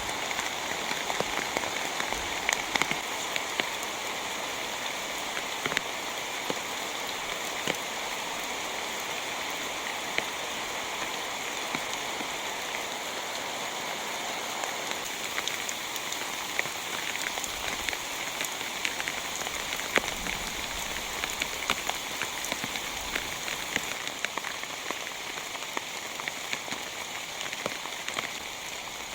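Heavy rain falling steadily, a constant hiss dotted with many sharp individual drop hits.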